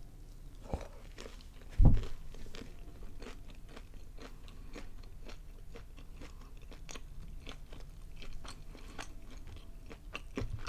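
Close-miked chewing of breaded, fried mozzarella sticks: a steady run of small crisp crunches from the crumb coating. A single loud low thump about two seconds in.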